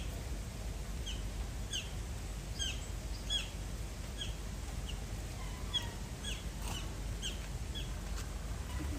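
A small bird calling over and over, a short sharp downward chirp about every three-quarters of a second, over a steady low rumble.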